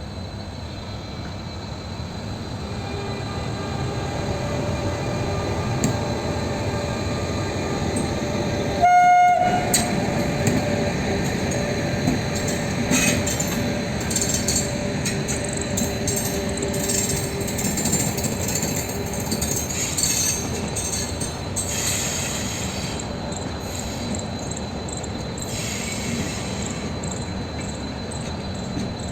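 A train running, growing louder over the first few seconds, with one short horn blast about nine seconds in, then the steady rumble of the train going on.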